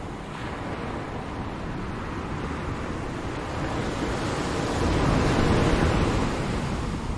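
Ocean waves breaking on a shore, a continuous rushing surf that swells to a louder wash about two-thirds of the way through, then eases.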